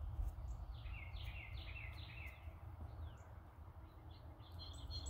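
A songbird calling: a quick run of about five short falling notes about a second in, then a few more scattered chirps. Under it is a low steady outdoor rumble.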